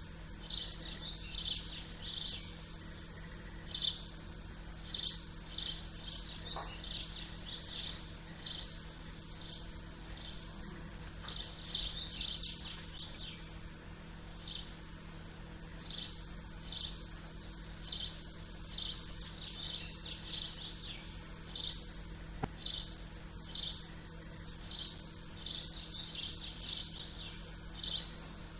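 Small birds chirping: short, high chirps repeated about once or twice a second, over a steady low hum.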